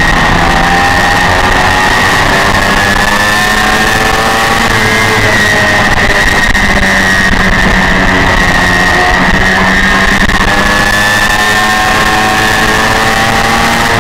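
Honda VFR400's V4 engine at racing revs, heard from onboard the bike with wind noise over the microphone. It holds around 11,000–12,000 rpm through a long bend, then rises in pitch toward 15,000 rpm as the bike accelerates near the end.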